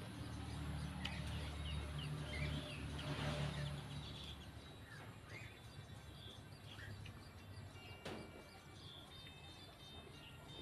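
Small birds chirping in short, scattered calls, over a low rumble that fades after about four seconds. A single sharp click about eight seconds in.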